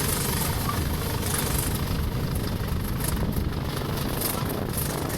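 A heavy railway engine running steadily with a low rumble.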